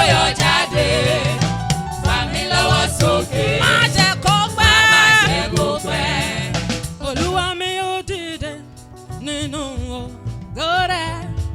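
Gospel music: singers and a backing choir over a band with bass and drums, with a short quieter stretch past the middle.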